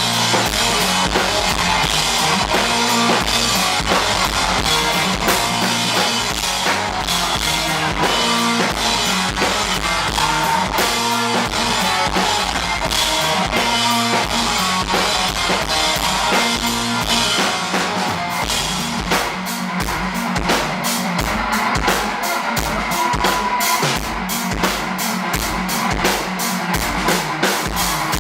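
Live rock band playing a drum-heavy instrumental interlude, with kick and snare driving throughout. About two-thirds of the way in, the drumming changes to evenly spaced hard hits.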